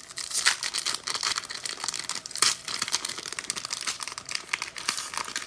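Foil trading card pack wrapper being torn open and crinkled by hand, a steady run of crackling with sharp little snaps; the pack is stubborn and hard to open.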